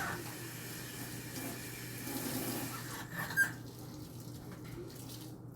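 Kitchen tap running into the sink for about three seconds, followed by a short clink about three and a half seconds in.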